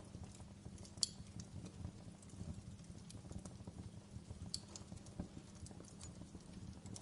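Fire crackling: irregular small pops and snaps over a low steady rumble, with a sharper pop about a second in and another about four and a half seconds in.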